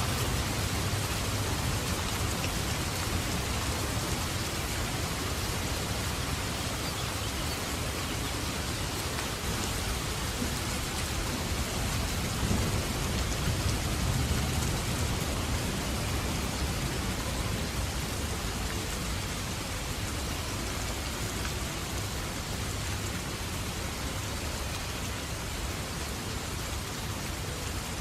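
Steady rain falling, with low rumbles of thunder that swell near the start and again about halfway through.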